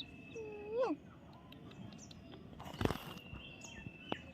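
Birds chirping, with short high chirps throughout and a steady high whistle-like tone. A rising call comes about a second in, and a brief rustle or thump near the three-second mark.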